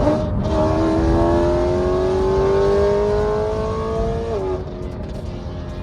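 Straight-piped BMW E92 M3's V8 exhaust under a hard pull, its pitch climbing steadily for about four seconds, then falling off sharply.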